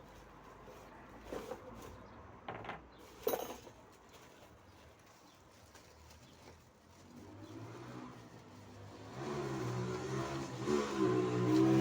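A few sharp knocks, then an engine comes in about seven seconds in and runs steadily, growing louder near the end.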